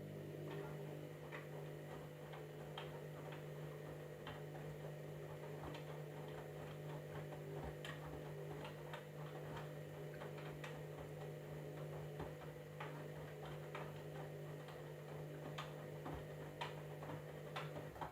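Candy washing machine running mid-cycle: a steady low hum with irregular light clicks and ticks over it, starting and cutting off suddenly.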